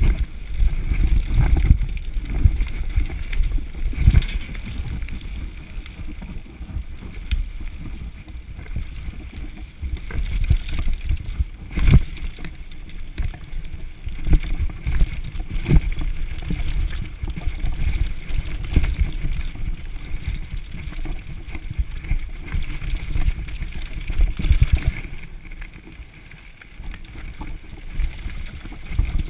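Mountain bike riding down a downhill trail: wind rumble on the microphone with tyre noise, and the bike rattling and knocking over bumps throughout.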